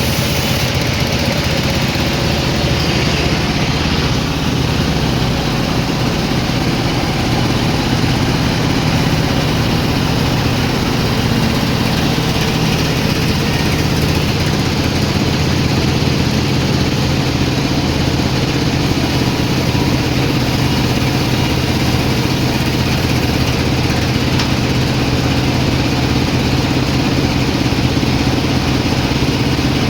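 Sawmill engine running steadily with a constant low drone.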